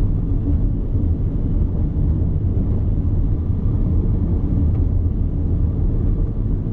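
Steady low rumble of a car driving on an open road, heard inside the cabin: engine and tyre noise at cruising speed.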